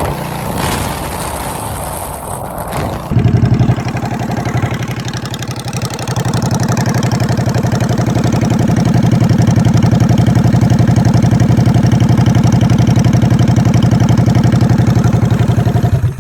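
Motorcycle engine running steadily with rapid, even firing pulses, with wind rushing over the microphone for the first three seconds; the engine sound cuts off abruptly at the very end.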